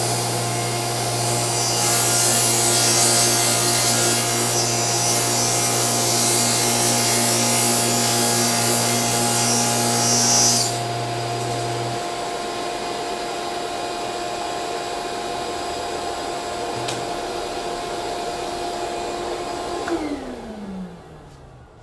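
Delta table saw cutting plywood, the blade's hiss on top of the motor's steady hum. About halfway through the cut ends and the saw runs on empty. Near the end it is switched off, and its hum falls in pitch as the blade spins down.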